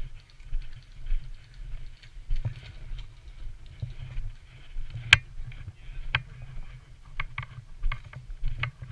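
Footsteps at about two a second carried by a head-mounted camera. Over them comes a string of sharp snaps in the second half, the loudest about five seconds in: airsoft guns firing.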